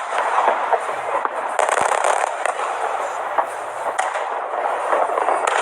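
Fireworks display going off continuously: a dense crackle with many short, sharp pops.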